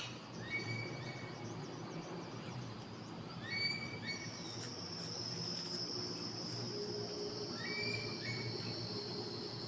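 Three short bird calls, a few seconds apart, over a steady outdoor background. A steady high-pitched insect drone joins about four seconds in and carries on.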